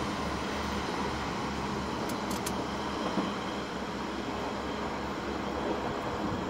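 Passenger train approaching from a distance: a steady, noisy rumble with no distinct events.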